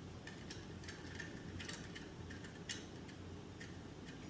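Faint, irregular light clicks and taps of small parts being handled during hand assembly, over a low steady room hum.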